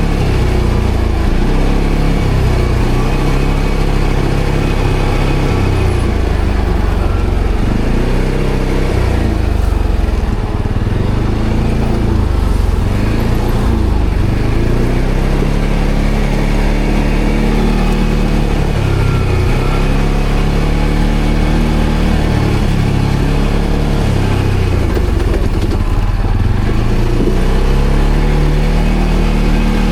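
ATV engine running under load, its revs rising and falling again and again as the throttle is worked.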